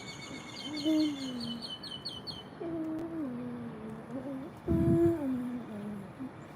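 A person humming a tune in sustained notes that step up and down. Over the first two and a half seconds a bird chirps a quick run of about nine repeated high notes, and a brief low thump comes about five seconds in.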